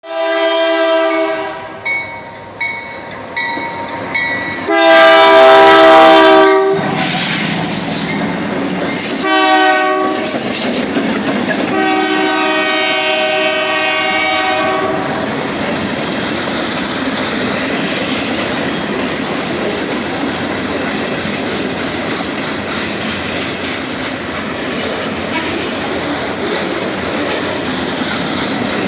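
Norfolk Southern freight locomotive's multi-chime air horn sounding a series of blasts, loudest about five seconds in and ending with a long blast around the halfway point. Then the manifest freight train rolls past with steady wheel-on-rail clatter.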